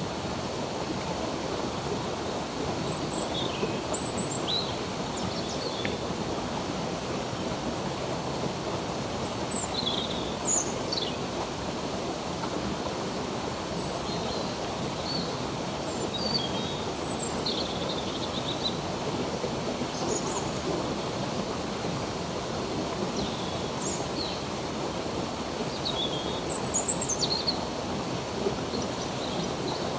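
Running water of a stream flowing steadily, with birds chirping in short, scattered calls throughout.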